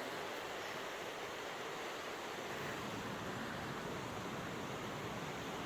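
Steady rushing of a mountain river, an even hiss of flowing water with no breaks.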